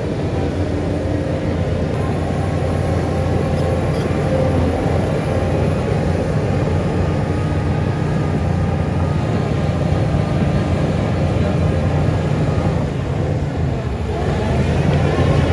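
Heavy diesel earthmoving machinery running steadily at working revs. The level dips briefly near the end and then rises again.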